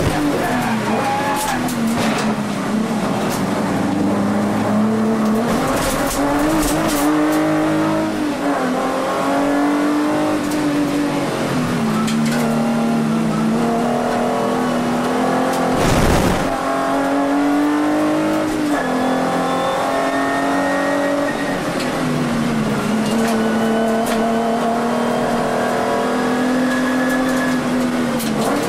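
The Volkswagen Vento VR6's narrow-angle six-cylinder engine heard from inside the race car's cabin at racing speed. Its pitch climbs and drops back again and again through acceleration, gear changes and braking. A single sharp thump comes about sixteen seconds in.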